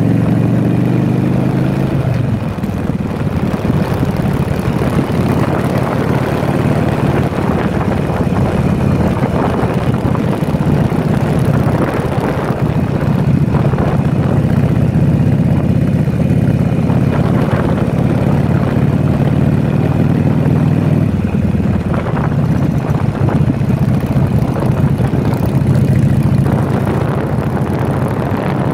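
Harley-Davidson Sportster V-twin engine running steadily at cruising speed, heard from on the bike, with wind rushing past the microphone.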